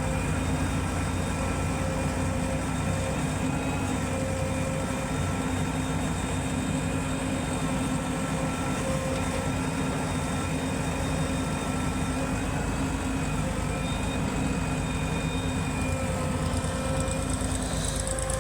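Heavy diesel machinery engine running at a steady speed, an even drone with no revving.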